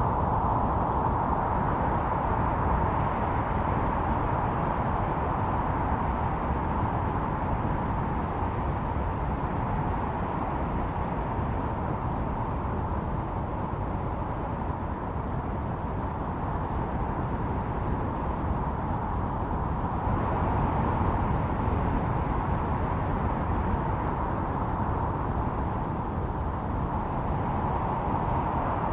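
Blizzard wind blowing steadily, a continuous rushing noise with a hollow tone, easing slightly around the middle and swelling again about two-thirds of the way through.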